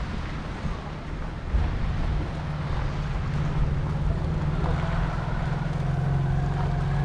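Motorbike engine idling steadily, a low even pulsing hum.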